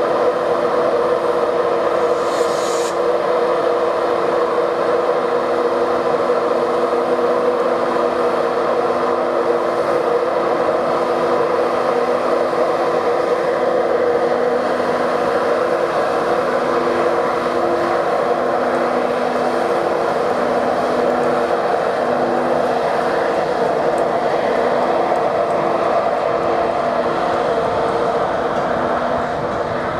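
Train running steadily at close range: a constant mechanical noise with steady hum tones, and a brief high-pitched sound about two seconds in.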